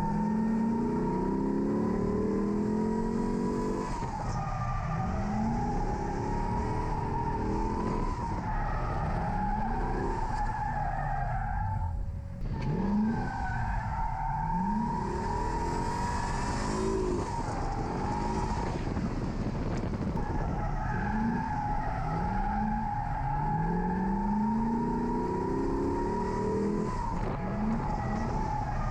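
C6 Corvette's LS V8 revving up and falling back again and again while drifting, over a steady, wavering tire squeal. The sound dips briefly about twelve seconds in.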